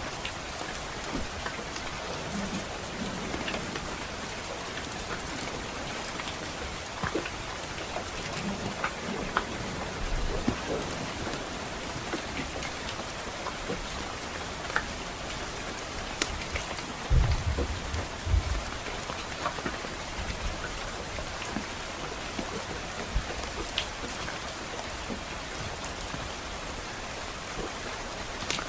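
Steady rain hissing on a surface, with scattered sharp pops from a crackling log fire. A brief low rumble of distant thunder comes about two-thirds of the way through.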